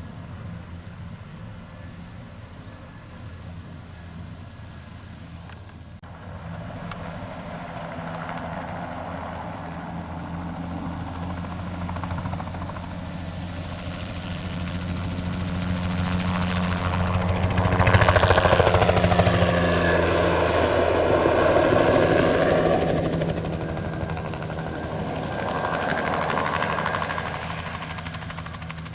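Single-turbine light helicopter flying a spraying pass. Its rotor and turbine noise builds steadily, peaks as it passes close about two-thirds of the way in with a sweeping shift in pitch, then falls away, with a smaller swell near the end.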